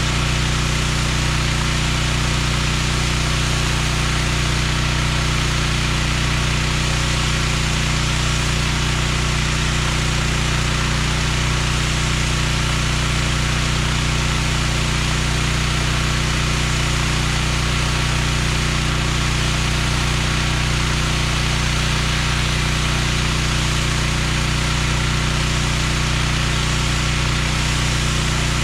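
Engine-driven pressure washer running steadily at constant speed: an unchanging engine hum under a continuous hiss.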